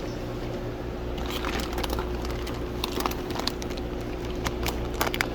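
Plastic fish shipping bags being handled and rustled, a run of irregular crinkles and crackles, over a steady low hum.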